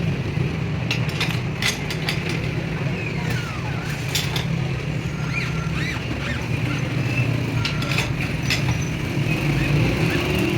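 Steady low machine or engine hum, with scattered short clicks and knocks over it.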